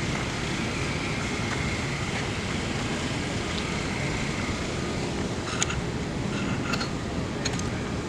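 Steady vehicle rumble, with a few light clicks in the second half.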